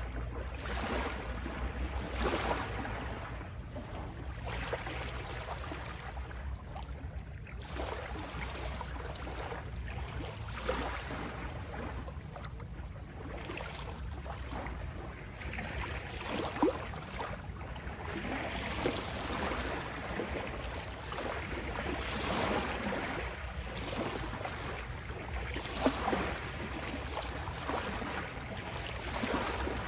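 Small sea waves lapping, a continuous wash of water that swells and eases every few seconds, with a few brief splashes.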